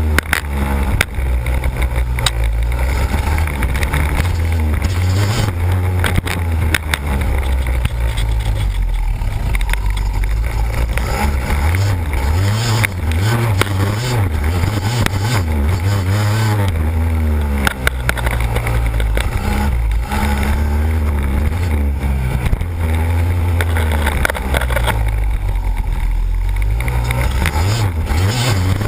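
2001 Yamaha YZ250's two-stroke single-cylinder engine being ridden hard, revving up and down again and again, its pitch rising and falling every second or two.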